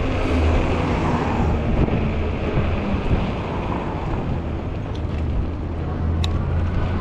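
Strong wind buffeting the microphone on a moving e-bike, over a steady low road rumble.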